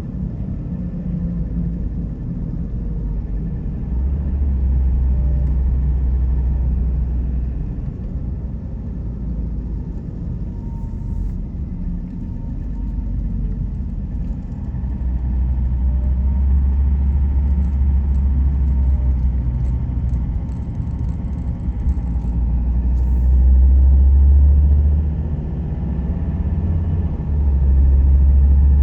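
Car driving on a road: a steady low rumble of road and engine noise that swells and eases several times.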